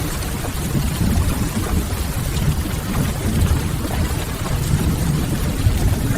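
Steady rain on a window mixed with a wood fire crackling softly in a fireplace, over a deep steady rumble.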